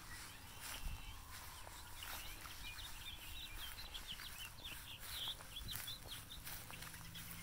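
Birds chirping: a dense run of quick, short high notes that starts about a second and a half in and stops shortly before the end.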